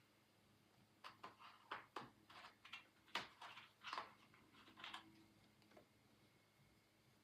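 Faint art-supply strokes on paper, a quick run of about a dozen short rubbing strokes from about a second in until about five seconds in.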